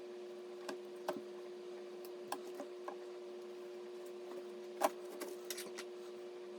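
Scattered light clicks and taps as computer parts are handled during assembly, about eight in all, the loudest about five seconds in. A steady low hum runs underneath.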